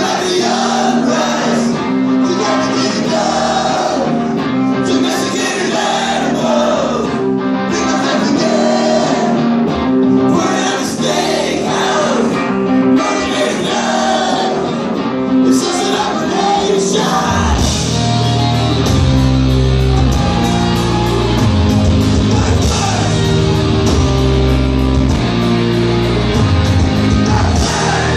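Live punk band playing in a large hall, heard from the crowd: guitar and singing, with heavy bass and drums coming in about two-thirds of the way through and the music getting fuller and louder.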